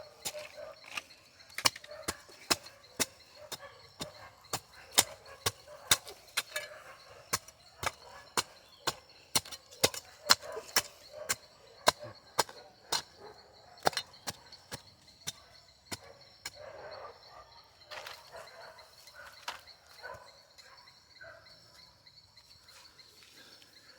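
Repeated sharp strikes of a hand gardening tool chopping into compacted garden soil to loosen it, about one or two a second, thinning out and stopping about 20 seconds in.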